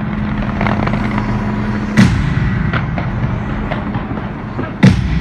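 Fireworks exploding: two loud bangs, about two seconds in and near the end, over a steady rumble of smaller pops and crackles.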